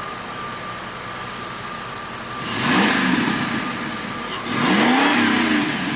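Car engine revved twice, the pitch rising and falling each time, the second rev slightly longer.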